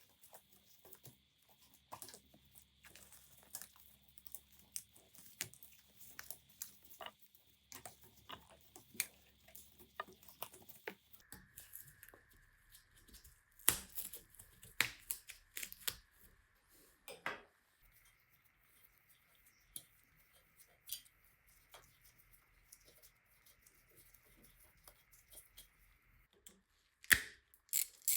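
Scattered clicks and knocks of hand work on bicycle parts. The faint steady hum behind them changes pitch abruptly twice, as separate short clips join.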